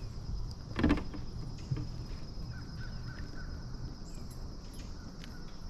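Steady chirring of insects, with a loud knock about a second in and a softer one shortly after.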